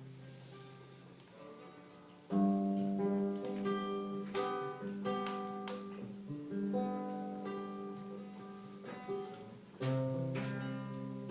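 Acoustic guitar strumming chords. It is faint for the first two seconds, then a firm strum comes about two seconds in and steady strumming follows, with another strong strum near the end.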